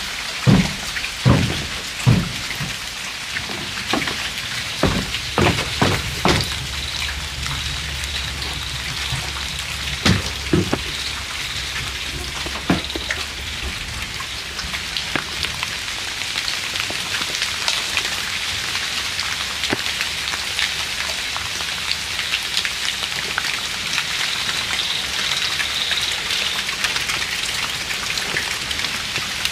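Steady rain falling, with a run of sharp, separate taps over roughly the first dozen seconds, then a more even patter.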